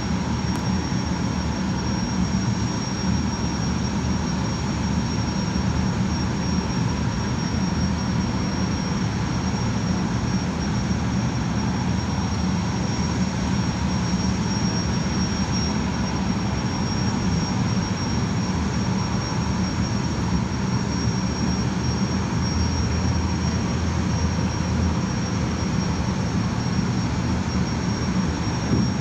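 Gas turbines of the jetfoil Seven Island Yume running steadily: a constant high-pitched whine over a low rumble, like a jet engine.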